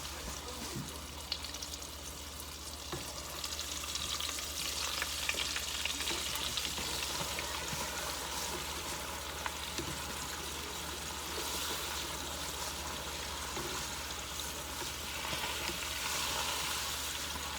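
Breaded shrimp frying in hot oil, a steady sizzle, with occasional light clicks as they are stirred in the pan.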